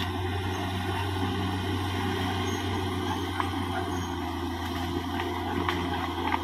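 Caterpillar D6R XL bulldozer's diesel engine running steadily, with scattered sharp clicks and cracks over it.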